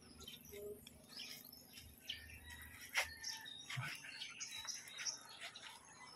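Faint birds chirping in the background, with one sharp click about three seconds in.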